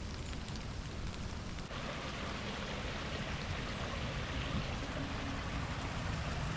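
Steady rain falling, an even hiss; about two seconds in a louder rushing hiss joins it.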